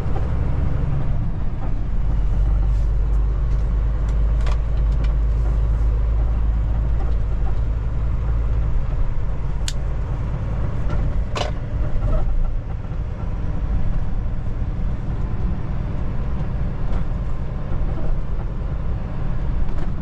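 Kenworth T680 semi truck's diesel engine running and road noise heard inside the cab while driving: a steady low rumble that eases a little about halfway through, with a few brief clicks.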